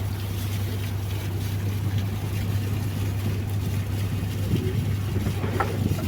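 Riverboat engine running steadily, a low drone under the wash of the water.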